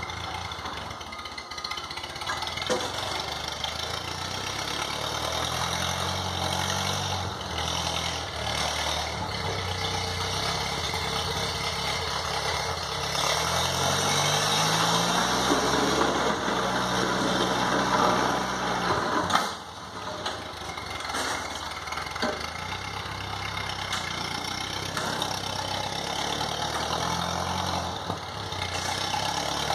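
1952 Ford 8N farm tractor's four-cylinder flathead gas engine running, its speed rising and falling several times as the throttle changes. The sound drops off sharply about two-thirds of the way through, then the engine carries on.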